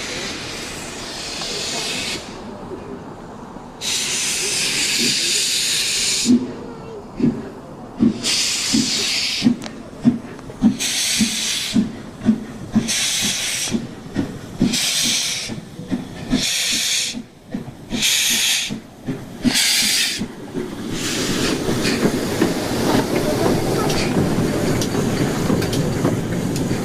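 LMS Princess Coronation class Pacific steam locomotive 46233 Duchess of Sutherland pulling away: exhaust chuffs quickening as it gathers speed, with the cylinder drain cocks hissing in time with the beats. About twenty seconds in the hissing stops and gives way to a steady rolling train sound.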